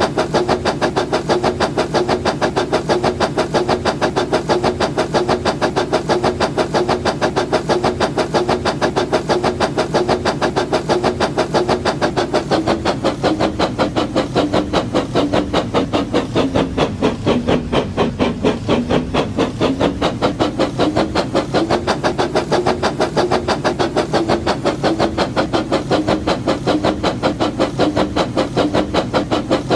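Battery-powered Labo brick toy train running: a small electric motor whirring with rapid, regular clicking from its gears and wheels. The pitch sags briefly about halfway through, then picks up again.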